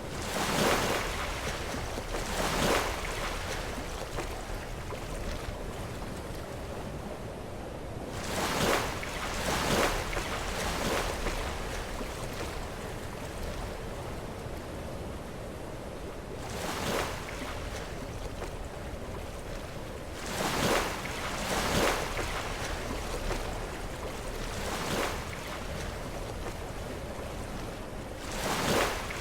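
Sea waves breaking against rocks, each surge rising and falling over a second or two, several times over a steady wash of surf, with some wind on the microphone.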